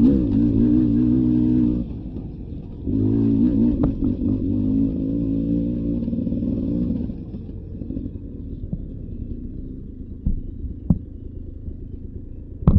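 Dirt bike engine revving with a wavering, unsteady pitch, easing off about 2 s in, then revving again for about four seconds. It drops back to a low, quieter running sound from about 7 s in, with a few sharp knocks.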